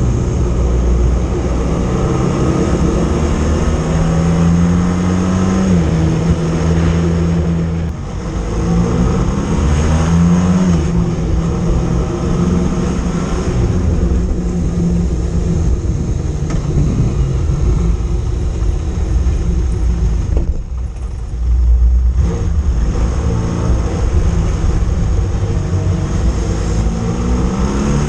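Motorcycle engine under way, its pitch climbing as it accelerates and dropping back at gear changes several times, over steady wind and road noise.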